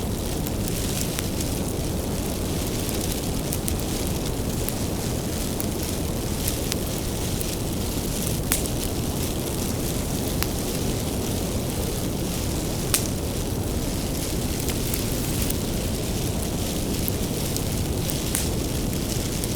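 Wood fire burning with a steady low rumble and irregular crackles and pops of firewood, a few sharper pops standing out.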